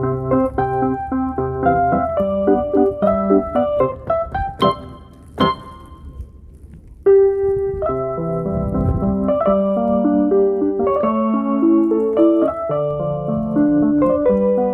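Melody and chords played on an electronic keyboard with a piano sound. There are two sharp clicks around the middle, and the playing stops for a second or two before it resumes.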